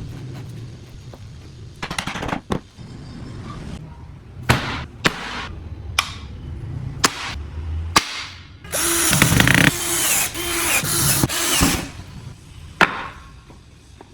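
Woodworking in a workshop: sharp knocks and taps, as of a mallet or hammer on wood or a chisel, then a power drill boring into wood for about three seconds in short stop-start runs, followed by one more knock.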